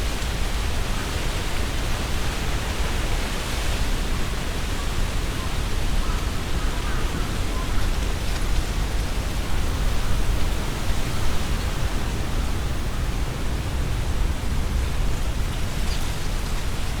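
Strong, gusty wind rushing through trees and rustling their leaves in a steady hiss that swells and eases. A low rumble of wind buffets the binaural microphone throughout.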